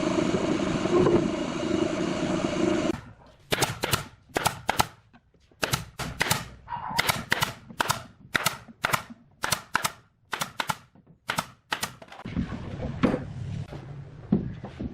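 A small power tool's motor runs steadily for about three seconds and stops. Then come a long series of sharp knocks on wood, about two a second, typical of hammering.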